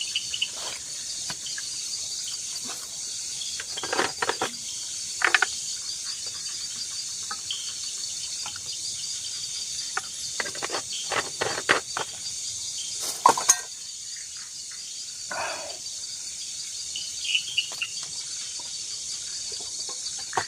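Steady high-pitched chorus of forest insects such as crickets, with a few sharp clicks and knocks close by, the loudest about thirteen seconds in.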